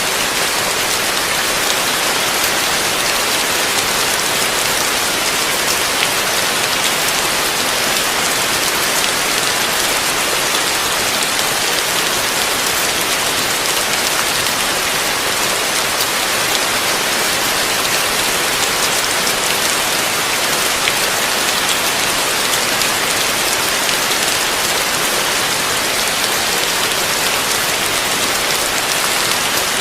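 Heavy rain falling steadily, a dense even hiss of drops striking a surface, with no thunder or other sounds.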